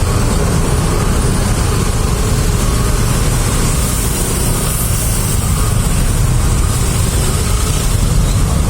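Road traffic in a jam: a steady din of vehicle engines running, with a heavy low rumble throughout.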